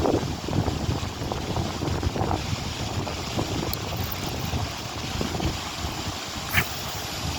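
Strong wind buffeting the phone's microphone, an uneven rumbling noise. There is one short, sharp click about six and a half seconds in.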